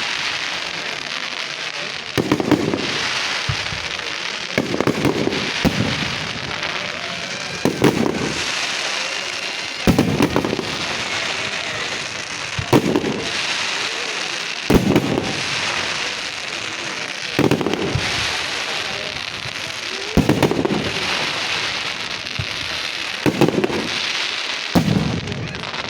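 Aerial fireworks display: shells bursting with a loud boom every two to three seconds over continuous crackling.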